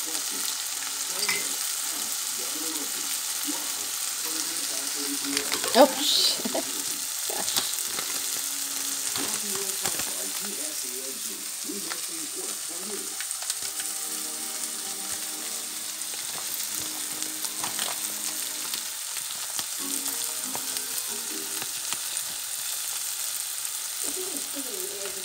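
Shredded cabbage and eggs sizzling in a hot cast-iron skillet, a steady frying hiss, with one sharp knock about six seconds in.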